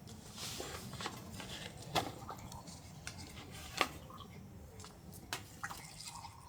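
Small objects being handled at close range: a few sharp clicks and light knocks spread over several seconds, over a low steady background.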